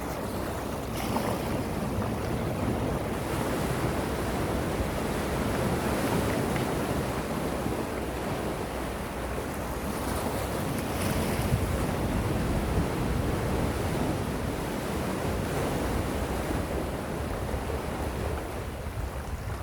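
Gentle ocean waves washing continuously on the shore, a steady surf hiss.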